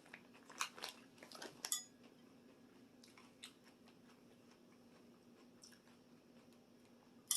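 Faint eating sounds from a cucumber salad: a few light crunches and clicks, one with a short metallic ring like a utensil against a dish, thinning out to near quiet after the first couple of seconds, with a sharp click at the end.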